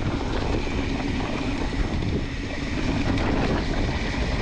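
Wind rushing over a helmet-mounted camera mic, with the steady rumble and rattle of a mountain bike rolling over rock trail.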